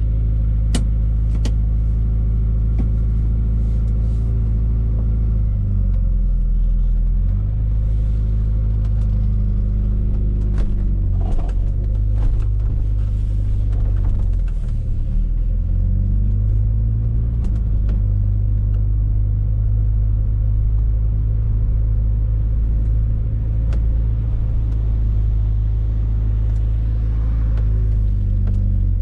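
Fiat Coupe 16V Turbo's turbocharged four-cylinder engine under way, heard loudly from the cabin; its note dips and climbs again several times as the car changes speed. Scattered sharp clicks and rattles from the car's interior trim.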